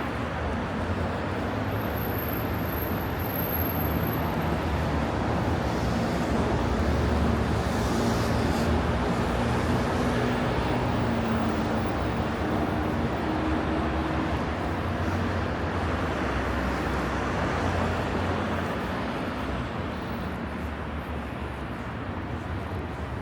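Road traffic on a city boulevard: a steady wash of tyre and engine noise, with vehicle engine hum swelling through the middle and easing off near the end.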